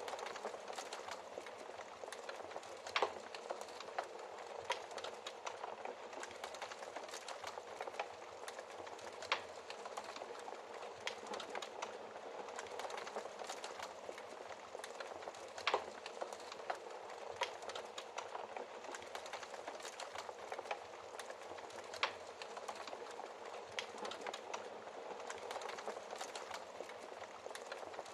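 Wood fire burning in a fireplace, a steady soft crackle with louder sharp pops every few seconds.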